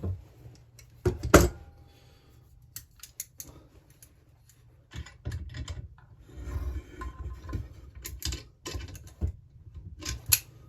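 Metal hand tools and parts being handled on a workbench: irregular sharp clinks, knocks and rattles, the loudest clanks about a second in.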